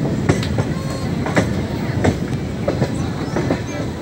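Passenger coach of an express train running at speed: a steady rumble of wheels on the rails, with irregular sharp clicks and knocks as the wheels pass rail joints.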